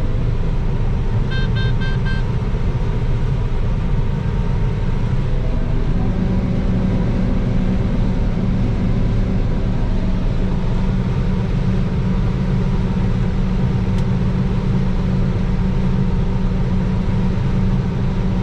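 Combine harvester running steadily under load while combining soybeans, heard from the cab as a loud, even low drone that takes on a stronger steady hum about six seconds in. A few short electronic beeps sound about a second and a half in.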